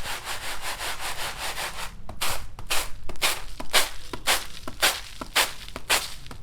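Hand-turned stone quern grinding, stone rasping on stone as dried pulses are split. A continuous rasp turns about two seconds in into regular strokes about twice a second.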